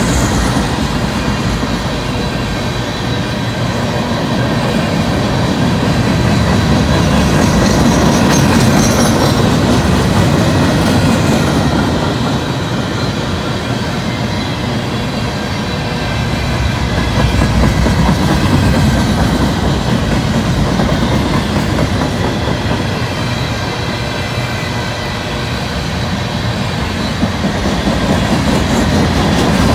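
Freight cars of a passing train, gondolas and empty steel-slab flatcars, rolling by at speed. The steady rumble of wheels on the rails swells and eases as the cars go past, with a faint high wheel squeal about eight to twelve seconds in.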